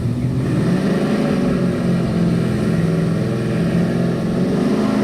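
Engine running hard at wide-open throttle on a drag-strip run. Its pitch climbs over the first second or two, then holds, and the sound cuts off suddenly near the end.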